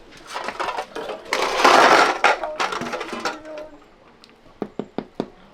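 Clattering, rustling noise, loudest around two seconds in, then a quick run of about five sharp taps near the end.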